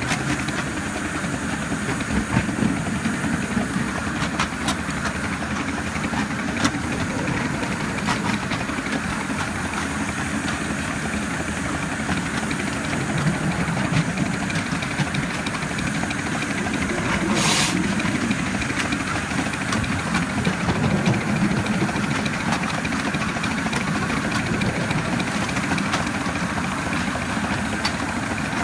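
A 7¼-inch gauge live-steam model of a D&RGW Baldwin C19 locomotive running, heard from the ride-on car: a steady rumble with steam hiss and scattered light clicks. A short, sharp burst of hiss comes about two thirds of the way through.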